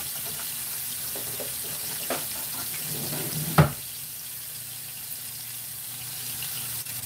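Steaks frying in hot shortening in a cast iron skillet, a steady sizzle, with a sharp clack a little past halfway through and a few lighter clicks before it.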